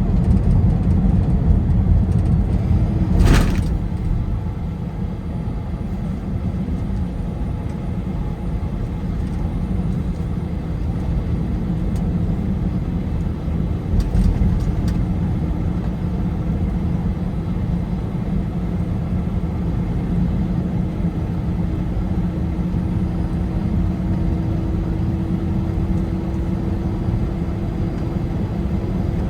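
Car driving at highway speed: a steady low rumble of tyres and engine, with one sharp knock about three seconds in and a faint hum that rises slowly in pitch toward the end.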